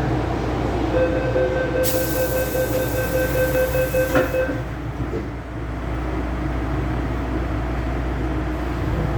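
MTR Tsuen Wan Line M-Train electric metro train running with a steady low rumble. A steady tone with overtones sounds from about a second in to about four seconds, overlapped by a hiss from about two seconds in that stops sharply.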